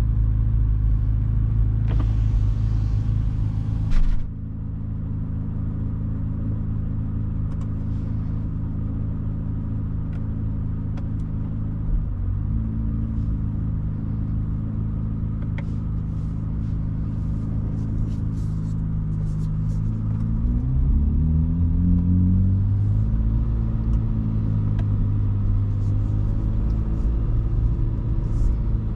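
Chevrolet Corvette C8 Z06's 5.5-litre flat-plane-crank V8 running at a steady cruise, with a brief hiss that cuts off sharply about four seconds in. In the last third the engine note rises and falls several times as the revs change.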